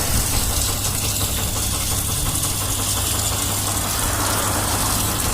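Engine idling steadily, with an even hiss over it.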